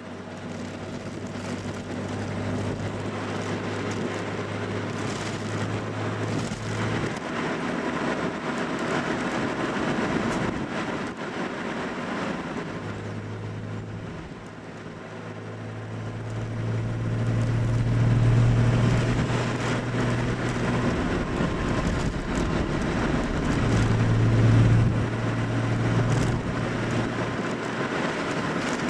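Old carbureted Nissan Skyline (Kenmeri) on the move: the engine's intake and exhaust note drones and rises and falls with the throttle over steady tyre and road noise. It swells louder twice, once past the middle and once near the end.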